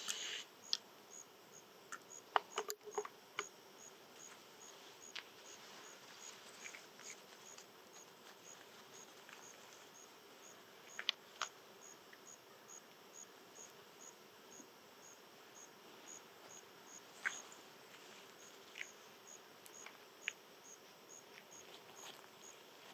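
An insect chirping faintly in an even rhythm, a short high chirp about twice a second, with a few sharp clicks and ticks scattered through it.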